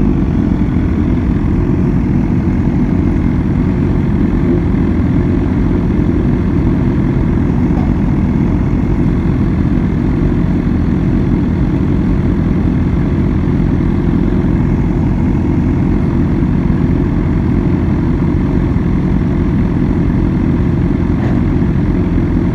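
BMW S1000R motorcycle heard through an onboard microphone: a steady, loud low rumble of engine and wind noise with no revving or changes in pitch.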